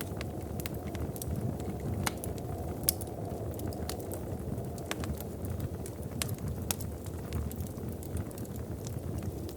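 Wood fire crackling, with scattered sharp pops and snaps over a steady low rumble. A louder pop comes about three seconds in.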